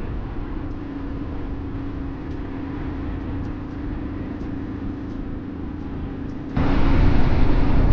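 Motorcycle running at a steady pace, its engine hum under road and wind noise. About six and a half seconds in, a sudden much louder rush of noise cuts in and stays.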